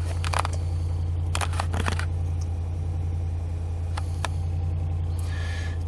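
Ram 5.7 Hemi V8 idling steadily shortly after a cold start, with no lifter tick to be heard; the engine is dead quiet on Rotella T6 oil. A few scattered clicks sound over it.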